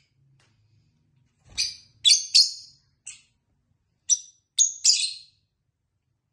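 Lovebirds chirping: a run of short, shrill chirps in two bursts, starting about one and a half seconds in and again about four seconds in.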